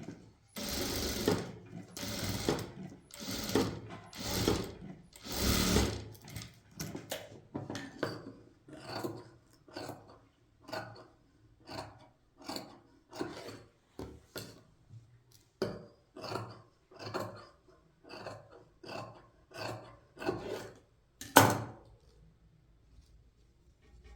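Rhythmic scraping strokes of a hand tool on a hard surface. The first several strokes are long and strong, about one a second; after that they come shorter and a little quicker, with one sharp, louder stroke near the end.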